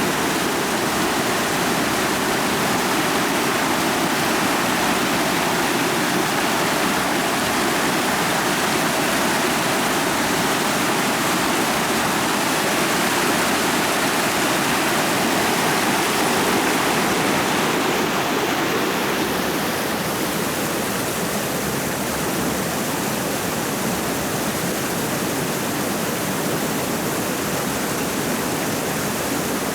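A rocky forest creek rushing steadily over stones. About twenty seconds in, the rush turns a little softer and less hissy.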